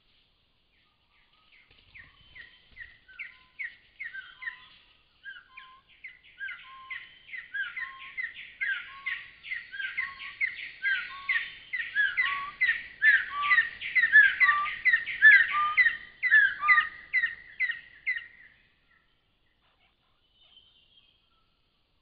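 A bird singing a long run of short, downslurred whistled notes, about two a second, each with a lower note beneath it; the run grows louder and faster, then stops abruptly.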